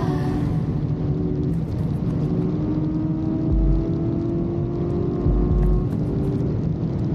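BMW S1000RR motorcycle engine running, its pitch rising slowly through the middle, layered with a deep bass backing that thumps heavily about three and a half seconds in and again around five and a half seconds.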